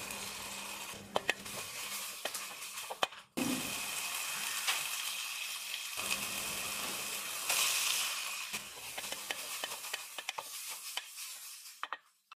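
Sliced onions frying in oil in a stainless steel pot, sizzling steadily, with a spoon clicking and scraping against the metal as it stirs. The sizzle breaks off briefly twice, a little after three seconds in and near the end.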